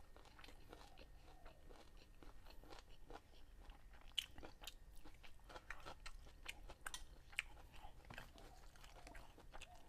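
A person chewing a mouthful of stir-fried chicken gizzards and rice close to a clip-on microphone: faint, irregular wet clicks and small crunches.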